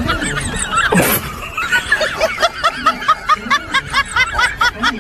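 Edited-in laughter: a quick, even run of high-pitched giggles, about four a second, over background music.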